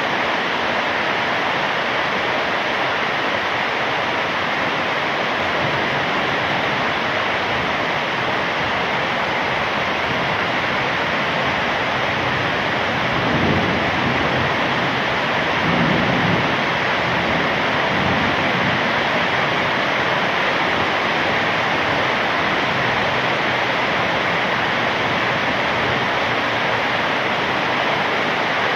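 Heavy rain falling steadily, with a brief low rumble about halfway through.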